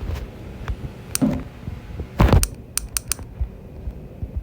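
Irregular sharp clicks and taps, with one louder, longer noise about two seconds in.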